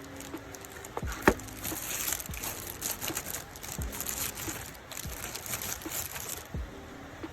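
Packaging crinkling and rustling as it is handled, with small clicks and one sharp click about a second in. The crinkling stops shortly before the end.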